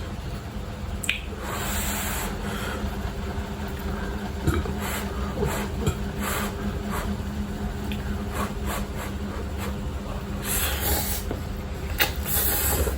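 A person eating spicy instant noodles up close: chewing and slurping, with a few short, noisy sucking sounds.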